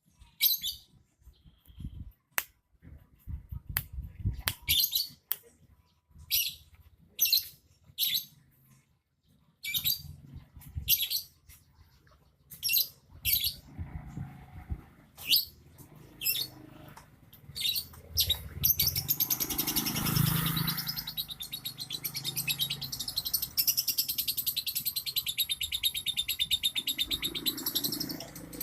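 A songbird giving short, high chirps spaced about a second apart, then, about two-thirds of the way in, breaking into a long, continuous, fast-twittering song.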